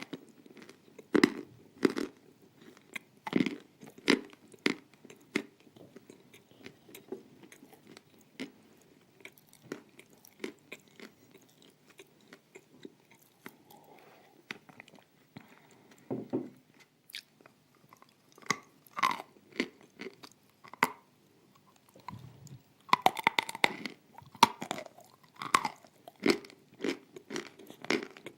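Close-miked biting and crunching of dry edible clay pieces, with sharp crunches in the first few seconds, once around the middle and in a dense run near the end, between quieter chewing.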